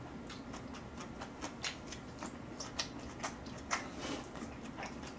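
Close-up wet chewing: irregular mouth clicks and smacks, a few a second, as a man chews a mouthful of instant black-bean noodles and sausage.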